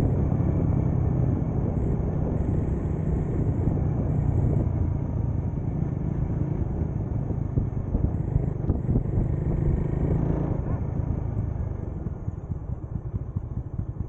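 A motorcycle engine running steadily while riding, with road and wind rush. It drops off and grows quieter about ten seconds in as the bike eases off.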